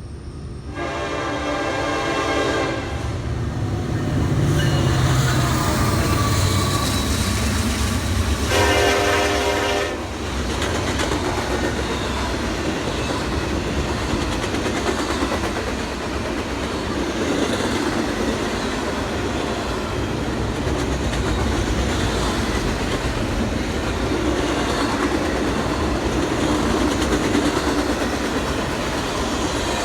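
Train horn sounding two blasts, a longer one about a second in and a shorter one near nine seconds, over the steady rumble and rail clatter of a train rolling through.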